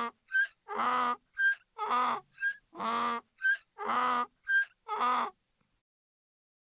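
An animal calling over and over in a regular two-part pattern: a short high note followed by a longer, lower call, about once a second, six times, then stopping.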